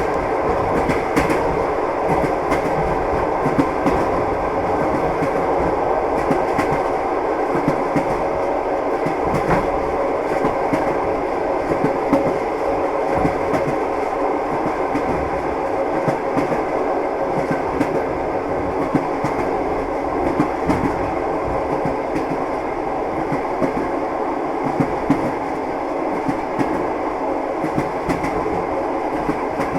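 Train wheels clattering over the rail joints of a moving train: a steady rumble with short knocks coming at uneven intervals throughout.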